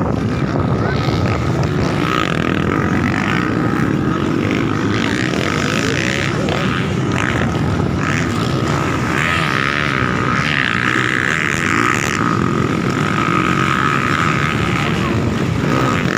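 Motocross dirt bike engines running, with a steady high-pitched tone throughout.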